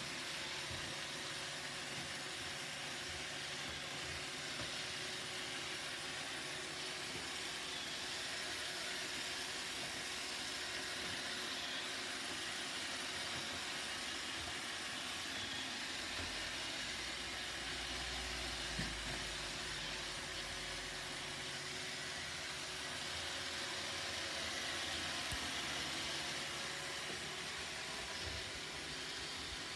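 Roomba robot vacuum running, its motor whirring with a steady hiss. A low rumble comes in about sixteen seconds in and fades after about five seconds, with a few light knocks here and there.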